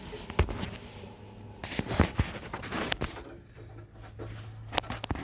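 Scattered sharp clicks and taps with rustling in between: handling noise as multimeter test leads are put to a furnace's hot surface igniter to read its resistance.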